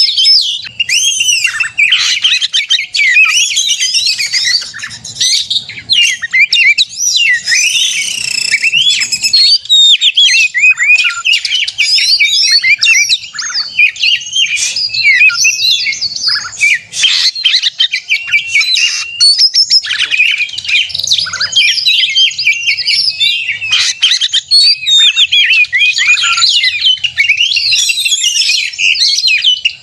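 Oriental magpie-robin singing nonstop in a fast, varied stream of whistles and chirps. This is the heated 'gacor narung' fighting song, used as a lure to provoke other magpie-robins into singing.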